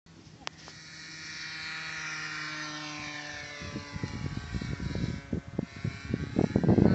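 Two-stroke glow engine of a radio-controlled model plane (OS 55AX) running at high revs and passing by, its buzzing tone getting louder and then slowly falling in pitch. From about halfway through, the engine fades under rough, irregular low rumbling that gets loud near the end.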